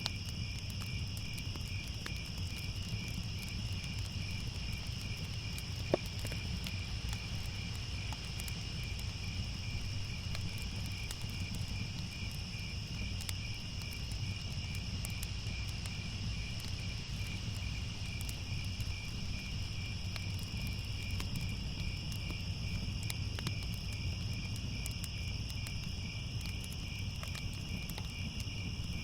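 Night chorus of crickets trilling steadily, high-pitched and finely pulsed, over a low steady rumble with scattered faint crackles, as from a fireplace. A single sharp click about six seconds in.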